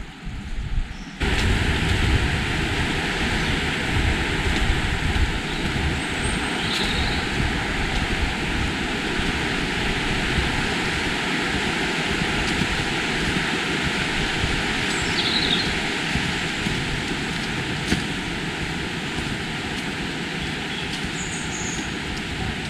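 Steady rushing of fast-flowing river water, starting abruptly about a second in after some low wind buffeting on the microphone. A few faint, short, high bird chirps sound over it.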